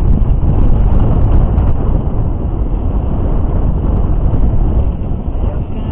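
Loud, steady rumbling noise with no clear pitch from wind and rough sea around a small fishing boat at sea, buffeting the microphone.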